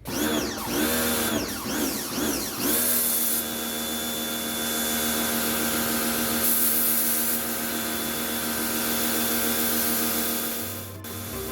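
Lotus LTPW 1400C 1400-watt electric pressure washer's motor and pump running. For the first few seconds it speeds up and slows several times in a row, then it runs at a steady pitch until it stops near the end.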